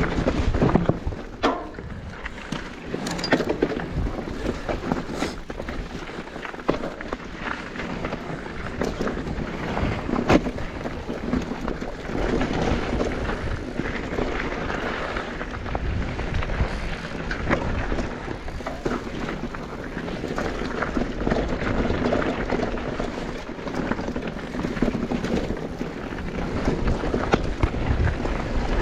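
Mountain bike riding fast down a bike park trail: tyres rolling over dirt and gravel, with the bike rattling and knocking over bumps and wind buffeting the microphone.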